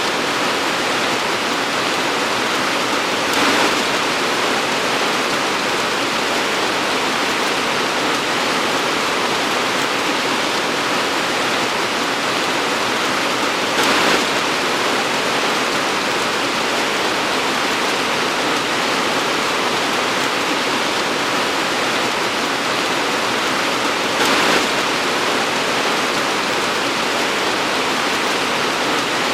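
Torrential rain pouring steadily, a dense even hiss, with three brief swells about ten seconds apart.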